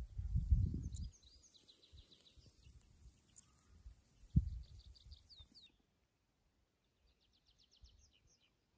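Small songbirds singing short trills of quick repeated notes, three times. A low rumble comes in the first second and a single dull thump about four seconds in.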